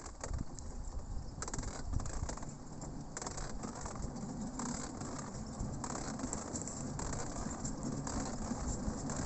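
1945 pedal rail-cycle draisine rolling along the track: its steel wheels rumble on the rails, with rattling and irregular clicks and knocks, the rumble growing a little firmer about halfway through.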